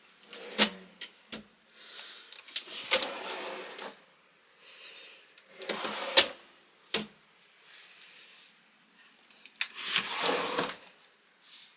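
Wooden knocks and short sliding scrapes, like a wooden cabinet's drawers and doors being moved and shut: about eight sharp knocks spread a second or more apart, with rubbing noise between them.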